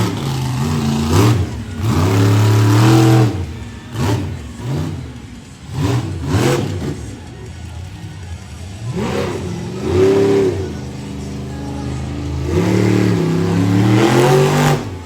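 Monster truck engine revving hard in repeated bursts, its pitch climbing and dropping again and again as the truck is driven through a freestyle run.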